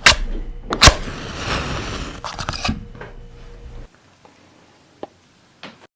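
Two sharp clicks close to the microphone, then about two seconds of scraping rustle. After that it goes quiet apart from two faint clicks near the end.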